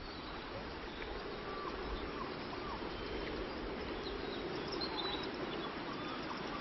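Outdoor nature ambience: a steady, even background hiss with several short bird chirps and whistles scattered through it.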